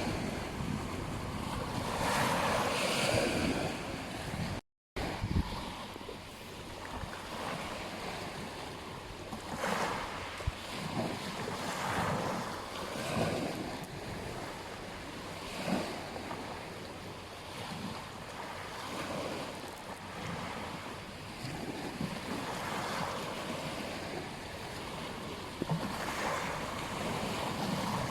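Ocean waves breaking and washing on a beach, swelling and fading every few seconds, with wind on the microphone. The sound cuts out completely for a fraction of a second about five seconds in.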